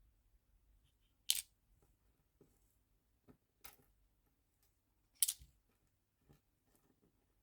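Sharp plastic clicks and small taps from nail charms and their small storage boxes being handled. The two loudest snaps come about a second in and about five seconds in, with fainter taps between.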